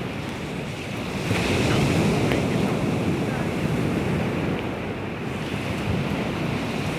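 Baltic Sea waves washing onto the shore, with wind on the microphone; the wash swells about a second in.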